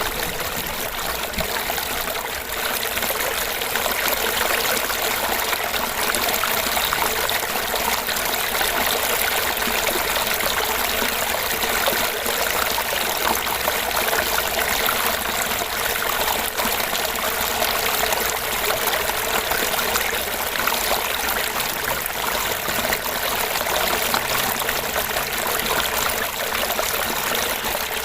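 Small fish-pond waterfall: water trickling and gurgling steadily into the pond, a constant hiss without pauses.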